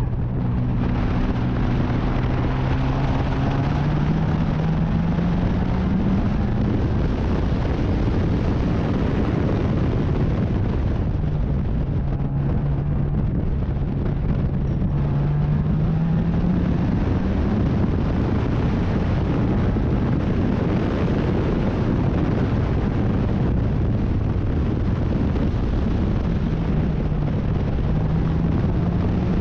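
Racing sports car engine pulling hard, its pitch climbing slowly three times as the car accelerates, under a heavy rush of wind and road noise.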